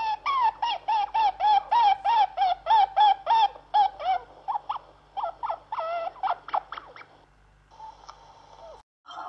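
A bird calling in a fast run of short, arched notes, about five a second, which then slows into scattered, irregular calls. The sound cuts off abruptly near the end.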